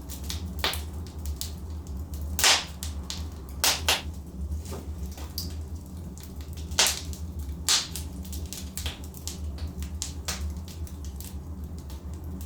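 Logs burning in a fireplace, crackling with irregular sharp pops, a few of them loud, over a steady low rumble.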